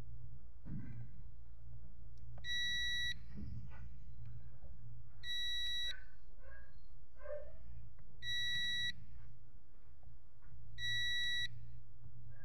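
Multimeter on continuity test beeping four times, each a steady high tone of under a second, a few seconds apart, as the probes touch each fuse: each beep means that fuse conducts and is intact. A steady low hum runs underneath.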